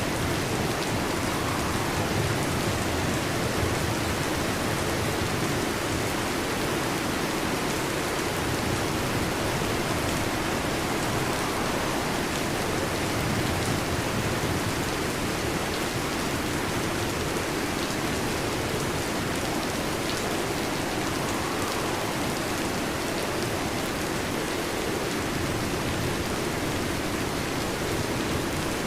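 Steady heavy rain, an even hiss and patter that does not rise or fall.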